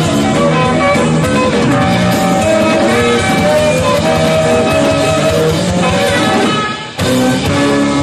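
Live band music with guitar to the fore, from a five-piece of drums, bass, keyboards, saxophone and guitar, with long held notes. It dips briefly about seven seconds in, then carries on.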